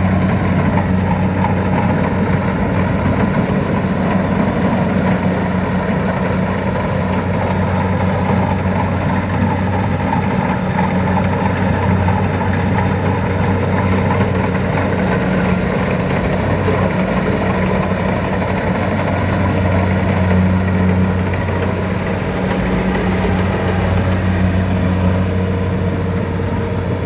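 Heavy farm machine's engine running steadily at a constant speed, a continuous low hum with no revving.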